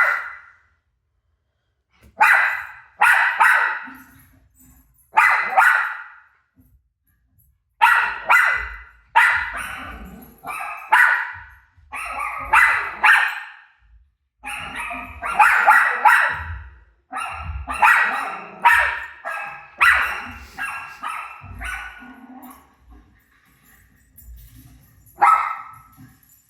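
Dog barking in runs of quick, sharp barks separated by short pauses, set off by a TV playing a recording of her own barking.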